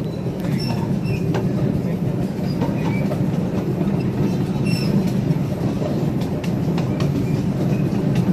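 Riding cars of a live steam train rolling steadily along the track, a constant rumble with scattered clicks from the wheels over the rails and a few short high squeaks.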